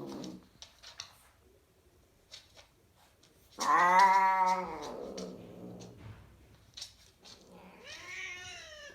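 Ragdoll cats yowling during mating: a loud, drawn-out yowl that rises and falls in pitch begins about three and a half seconds in, and a second, quieter yowl comes near the end, with a few faint clicks in between.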